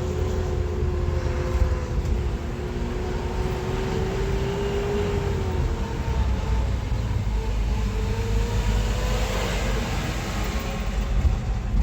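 A car driving: steady engine hum and road rumble heard from inside the moving car, the engine note drifting slowly in pitch.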